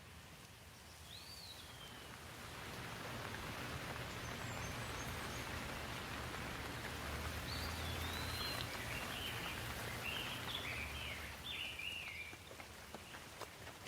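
Rain falling steadily, its hiss swelling louder a couple of seconds in and easing again near the end. A bird chirps once about a second in and gives a run of short chirps through the middle.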